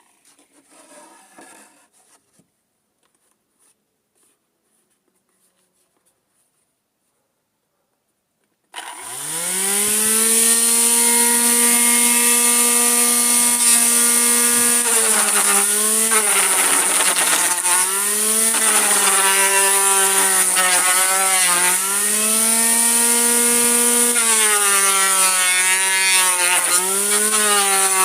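Blender motor converted into a grinder and sander, switched on about nine seconds in after near silence: it spins up quickly to a steady high-speed whine. Its pitch sags briefly and recovers several times, as when the spinning wheel is pressed against the work.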